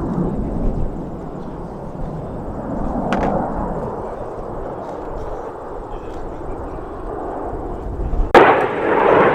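Jet aircraft flying past at an air show: a steady rushing roar that swells and fades, with a sharp click about three seconds in and a sudden, much louder rush near the end.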